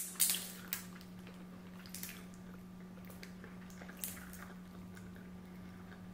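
Close-miked chewing: a few short wet mouth clicks and smacks, mostly in the first second and again about two and four seconds in, over a steady low hum.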